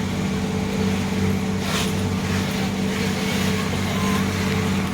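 Boat engine running with a steady low drone, and a brief swish of water or wind about two seconds in.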